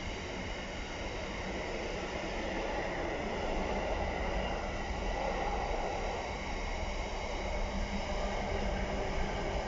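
Container freight train's wagons rolling steadily past, a continuous noise of wheels on the rails.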